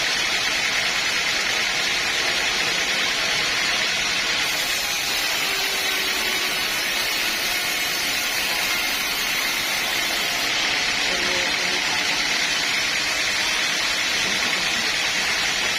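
Sawmill saw running steadily: an even, unbroken rushing noise with no clear starts or stops.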